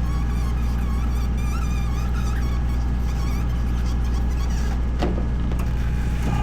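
Steady low rumble of an idling engine, with a couple of sharp knocks about five seconds in.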